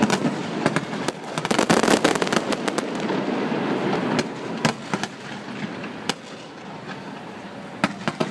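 Fireworks display going off: a dense run of rapid crackling and bangs that thins out about four seconds in, leaving scattered single bangs.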